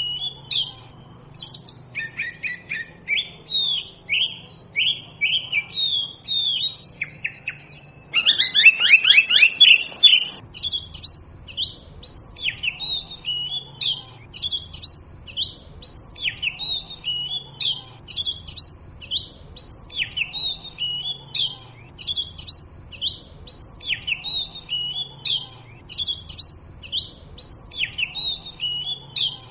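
Oriental magpie robin singing a continuous, varied song of short whistled notes, with a louder run of rapid repeated notes about eight seconds in that lasts around two seconds.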